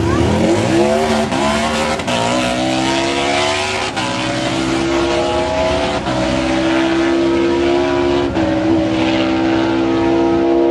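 Harley-Davidson Destroyer drag bike's V-twin launching off the line at full throttle and pulling down the strip. Its pitch climbs in each gear and drops at four upshifts about two seconds apart.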